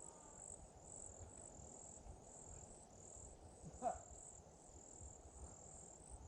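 Faint high-pitched insect chirping in even pulses, about two a second, in otherwise quiet woods. A brief soft sound about four seconds in.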